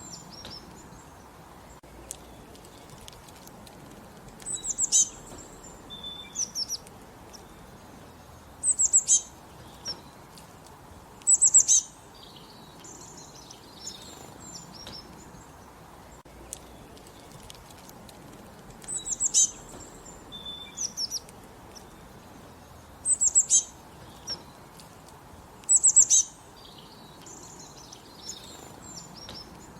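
Songbirds singing: short, bright, high phrases every few seconds, in two runs with a lull in the middle, and fainter chirps between them over a soft background hiss.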